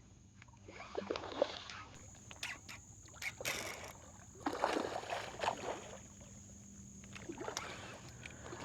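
Water splashing and sloshing in uneven spells, with a few light knocks.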